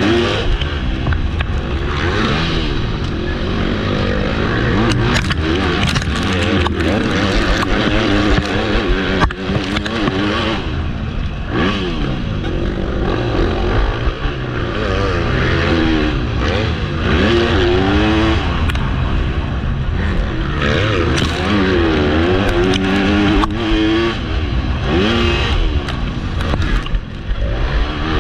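Motocross bike engine under hard riding, its pitch climbing and dropping again and again as the rider opens and closes the throttle and shifts, with scattered knocks.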